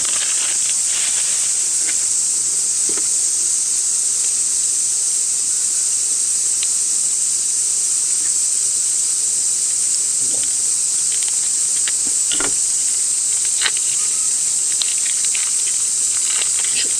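Dense chorus of cicadas shrilling, a steady high hiss that does not let up. A few light clicks and knocks of handling sound over it.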